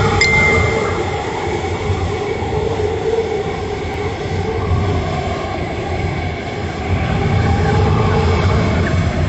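Hurricane-force wind blowing hard and continuously with a deep rumble. A brief high whistle sounds near the start.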